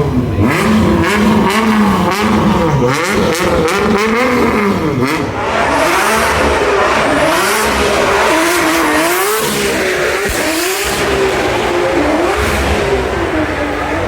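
Performance car engine revving hard, its pitch swinging up and down about once a second, with a loud hiss joining about six seconds in.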